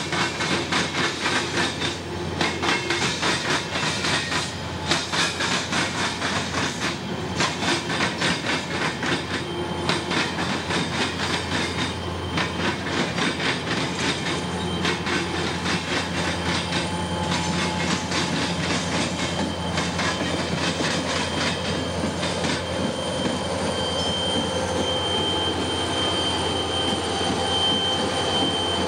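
Freight train wheels clattering over rail joints in a quick, even rhythm, then the engine drone of an Indiana Harbor Belt EMD GP40-2 diesel locomotive growing as it draws near. A steady high-pitched wheel squeal comes in from a little past halfway as the locomotive passes close by.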